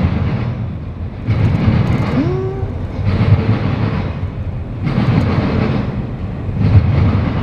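Intermodal freight train cars rolling past close by: a loud low rumble that swells about every one and a half to two seconds as the cars go by, with a short rising tone about two seconds in.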